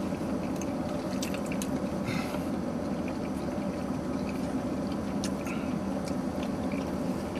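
Wet chewing and mouth smacks of people eating saucy meatball subs, with scattered small clicks, over a steady low hum in a car interior.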